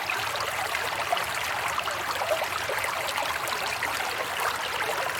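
Running water of a stream trickling steadily.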